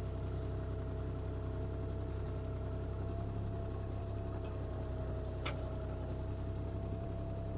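CAT 303C CR mini excavator's diesel engine running steadily under a steady whine while the machine works. There is one faint click about five and a half seconds in.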